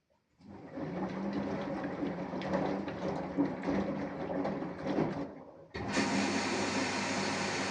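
Samsung Eco Bubble inverter washing machine running its wash: a steady motor hum with the tumbling knocks and sloshing of laundry in the drum. It stops about five seconds in, and a steadier, even machine hum starts abruptly just after.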